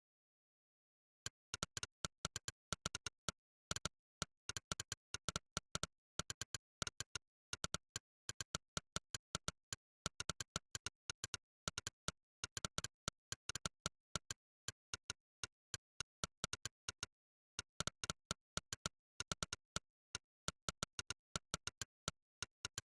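Monkeytype's synthesized 'click' keystroke sound, one sharp click per key pressed, in a fast, uneven typing rhythm of several clicks a second with short breaks. It starts about a second in, after silence.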